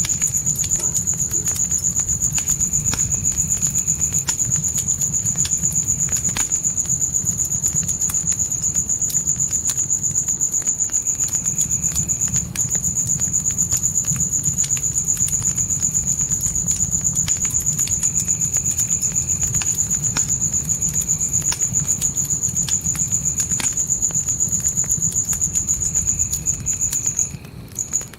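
Crickets chirping in a steady, high, fast-pulsing trill, with a campfire crackling in short pops over a low rumble of flames. The trill breaks off briefly near the end.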